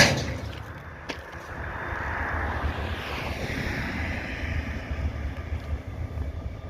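A loud metallic bang as railroad couplers slam together, with a short ringing decay, then a smaller click about a second in. A broad rush of noise swells and fades over a steady low rumble.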